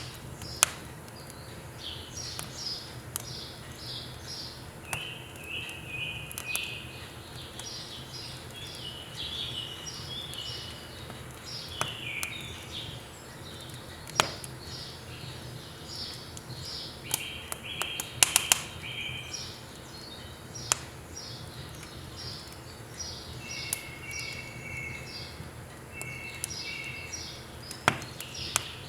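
Firewood crackling and popping in a wood stove, with sharp pops scattered through and a quick cluster about eighteen seconds in, while birds chirp in repeated short phrases over a steady low hum.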